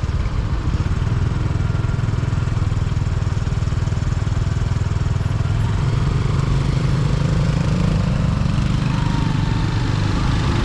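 Honda XR150's single-cylinder engine running steadily while riding, a low pulsing engine note over road and wind noise.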